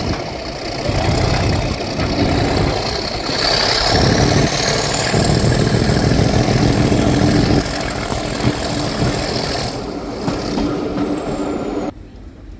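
Class 37 diesel-electric locomotive 37688's English Electric V12 diesel working hard under power, a heavy rumble with its turbocharger whistle climbing steadily for several seconds, then falling away. The sound drops suddenly near the end.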